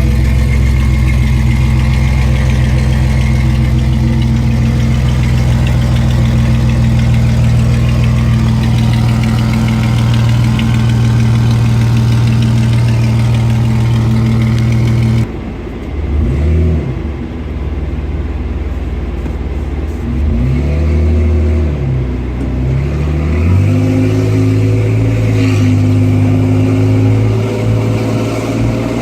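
2010 Jeep Wrangler's 3.8-litre V6 running through long-tube headers, 2.5-inch pipe and MagnaFlow 60 series mufflers. It holds a steady note for about half the time. After an abrupt change it is revved up and back down about three times, then settles to a steady note again.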